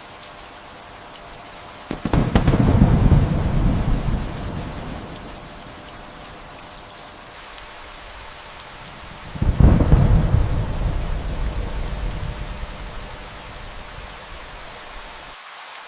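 Steady rain with two rolls of thunder: one breaks suddenly about two seconds in, the other a little past the middle, and each rumbles away over several seconds.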